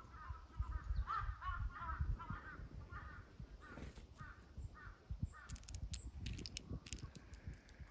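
Crows cawing in a rapid series of short, harsh calls that stop about five seconds in, followed by a few sharp clicks, over a low rumble.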